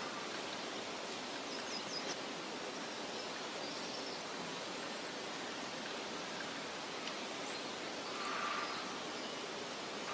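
Meadow ambience: a steady rushing hiss of soft wind through grass, with a few faint, high bird chirps.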